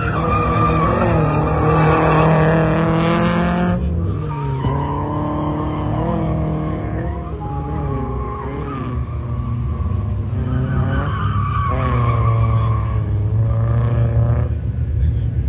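Car engine revving hard under load with tyres skidding, as in drifting; the engine note climbs, drops sharply about four seconds in, then builds again and falls away near the end.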